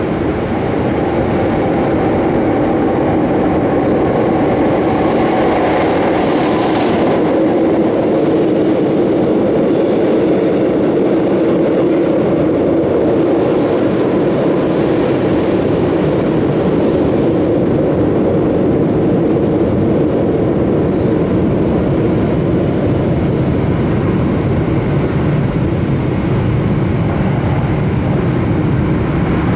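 Commuter train running through a rail tunnel, heard from aboard: a steady, loud rumble of wheels on rails. A train passing on the next track swells the noise about halfway through.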